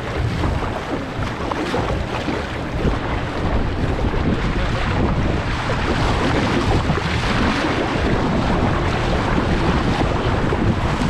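Strong wind buffeting the microphone: a continuous rushing noise with heavy low-pitched buffeting.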